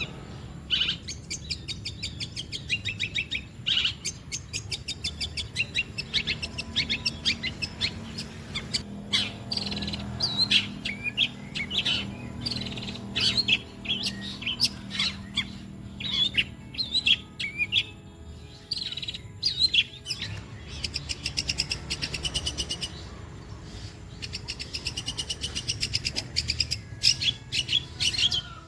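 Long-tailed shrike (cendet) singing a long, fast run of chattering and chirping notes, rapid trains of sharp repeated calls mixed with mimicked phrases of other birds' calls, with short pauses between runs.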